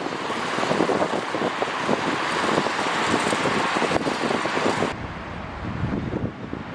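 Wind buffeting the microphone over a loud, steady rush of noise. The hiss drops away suddenly about five seconds in, leaving lower gusty rumbling.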